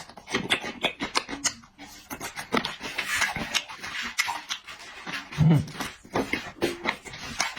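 Close-up eating sounds: a quick, irregular run of wet chewing clicks and lip smacks, with one brief low vocal sound about five and a half seconds in.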